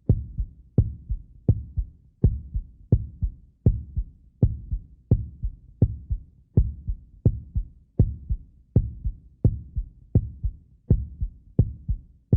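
Heartbeat sound effect for horror scenes: steady low thumps, about 1.4 a second.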